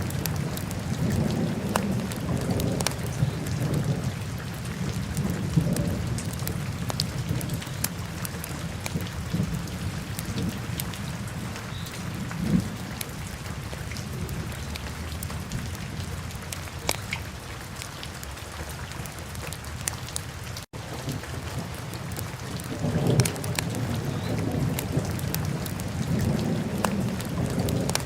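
Wood fire in a fireplace crackling and popping, with scattered sharp snaps over a steady low rumble of the flames. The sound cuts out for an instant about two-thirds of the way through.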